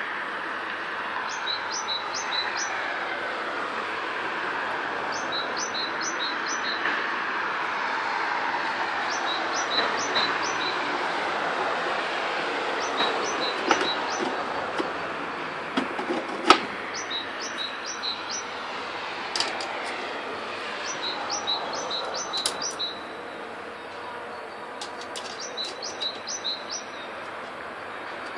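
Small bird chirping in quick groups of short high notes every few seconds, over a steady background noise that gets quieter near the end.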